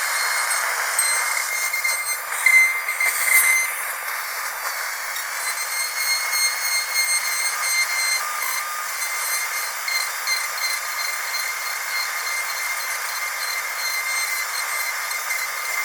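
Dentist's drill whining steadily at a high pitch over a hiss, with a brief louder, shriller stretch about two to three seconds in.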